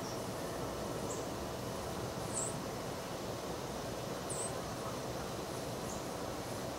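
Steady outdoor background noise with a handful of short, high-pitched chirps from small birds, a second or two apart.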